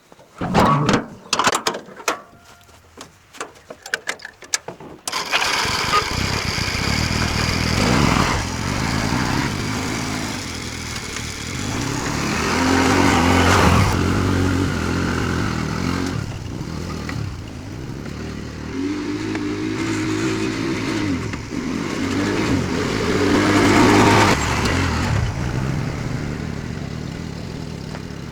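A few seconds of sharp knocks and clatter, then a small motorbike engine running under way, its pitch rising and falling as it speeds up and eases off.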